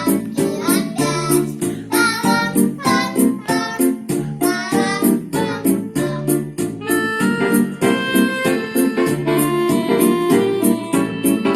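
Two young children singing a children's song over a recorded backing track with a steady, even beat and keyboard accompaniment.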